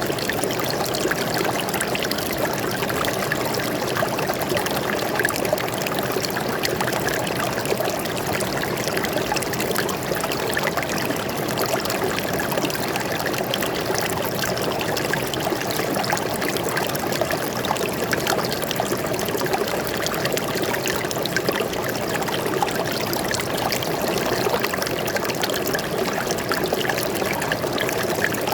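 A forest stream flowing steadily over rocks, a constant babbling trickle with a dense texture of small splashes.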